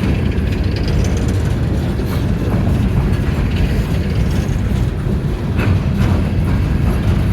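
Empty coal hopper cars of a freight train rolling past: a steady low rumble of wheels on rail, with a few sharp clicks as wheels cross rail joints.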